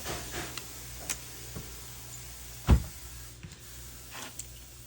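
Hand tools and Torx bits being handled: a few light clicks and one sharp knock nearly three seconds in, over a low steady hum.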